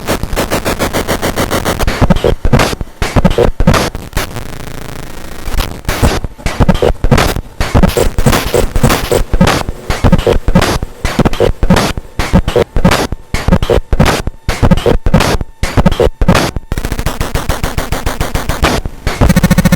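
Bastl Kastle Drum lo-fi drum synth playing harsh, rapid electronic noise percussion through a Korg NTS-3 effects pad's looper, decimator and reverb. It comes as stuttering, buzzing bursts of hits, with a stretch of steadier hissing noise about four seconds in.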